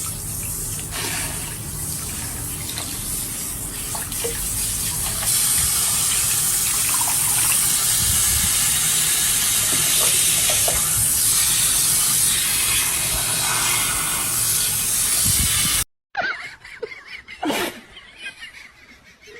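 Steady rush of running water, growing louder about five seconds in, then cutting off suddenly; a quieter stretch follows with a single sharp click.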